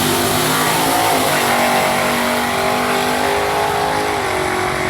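A car engine revving loudly. Its pitch dips and climbs about a second in, then holds high and steady.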